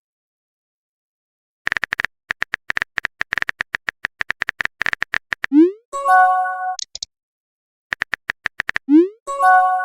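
Chat-app sound effects: a quick run of keyboard-style typing clicks, then a short rising swoop and a brief chime of several steady tones, the message-sent sound. A shorter run of clicks and a second swoop and chime come near the end.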